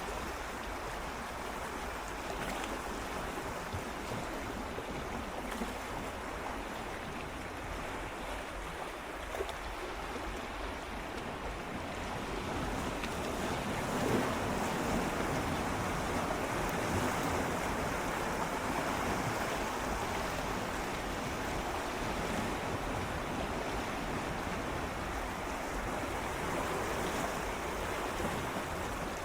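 Gentle sea waves swirling and lapping against shoreline rocks, a steady wash of water that swells louder about halfway through.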